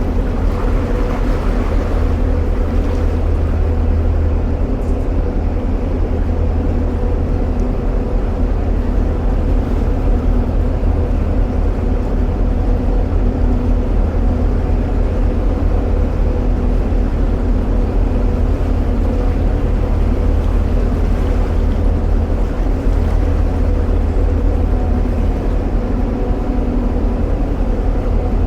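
Narrowboat's diesel engine running steadily at cruising speed, a continuous low rumble with a faint steady hum above it, enclosed in a brick canal tunnel.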